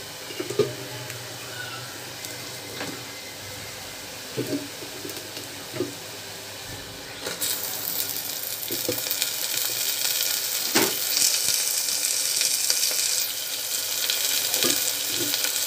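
Onions sizzling in hot oil in an aluminium pressure cooker, with a few sharp knocks. About halfway through, minced meat goes into the oil and the sizzling turns suddenly much louder and stays loud.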